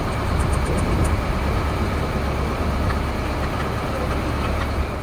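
Large vehicle engine running steadily at idle, a deep low rumble.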